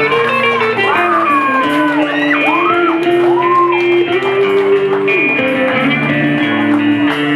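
Rock music instrumental break: a lead guitar line of bent, gliding notes over held band chords.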